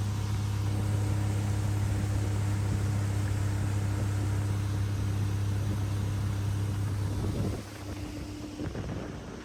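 Boat motor running at a steady speed, a loud even hum that starts abruptly and drops away about seven and a half seconds in.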